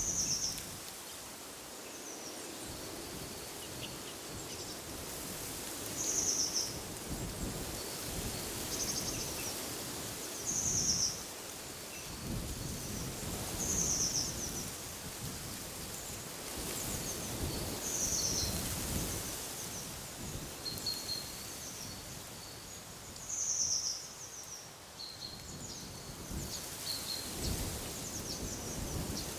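Wind gusting through trees and rumbling on the microphone, with a bird repeating a short, high call about every four seconds and softer short chirps between.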